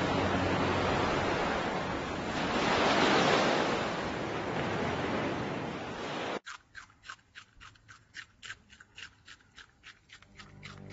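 Shallow sea water washing over a sandy beach: a steady rushing hiss that swells about three seconds in and cuts off suddenly a little past six seconds. A run of quick, faint clicks follows, several a second.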